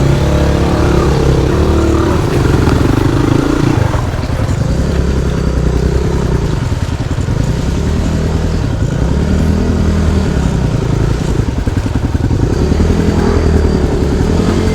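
Motorcycle engine running under load, its revs rising and falling several times as the bike is ridden.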